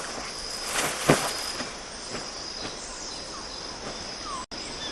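Forest ambience with a steady high-pitched insect drone. A few soft rustles come about a second in, and short downward-sliding chirps sound near the end.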